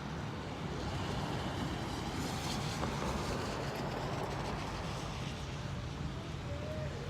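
Street traffic noise with a steady low rumble. A vehicle passes on the wet road, its tyre hiss swelling about two to three seconds in and then fading.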